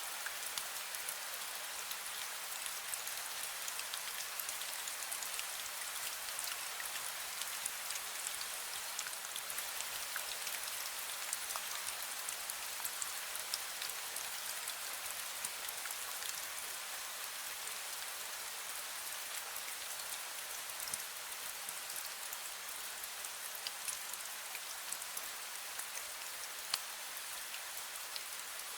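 Drizzle falling steadily: an even hiss of fine rain dotted with many tiny drop ticks.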